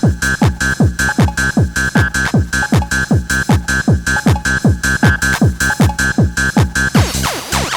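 Fast hardcore techno: a pounding kick drum about three to four beats a second under a repeated synth stab. About seven seconds in, a burst of sweeping noise cuts across the beat.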